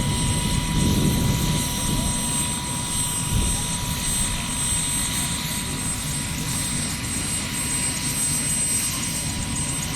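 Aircraft running steadily: a continuous low rumble with faint, steady high-pitched tones above it.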